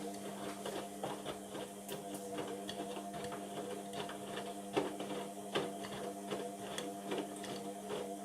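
Indesit washing machine running its wash cycle: a steady motor hum with irregular clicks and knocks.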